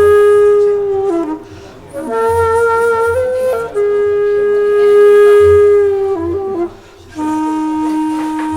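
Background music: a flute-like wind instrument playing long held notes in slow phrases, each note lasting two to three seconds with brief breaths between, over a soft low pulse.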